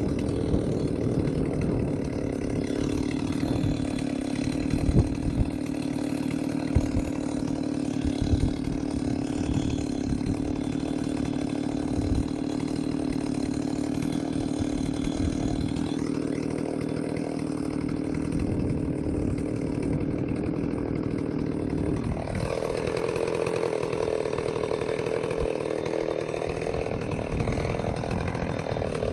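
Stihl 038 Magnum two-stroke chainsaw running steadily under load in a cut, with a few sharp knocks in the first half. About three-quarters of the way through its pitch jumps up as the engine speeds up.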